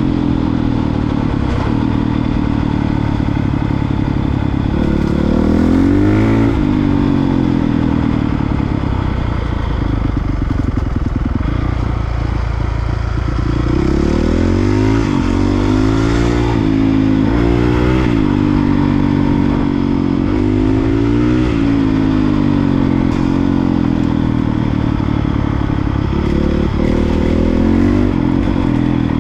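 Honda CRF450R dirt bike's single-cylinder four-stroke engine running hard on the trail, its pitch rising and falling again and again with the throttle, holding steadier for a few seconds near the middle.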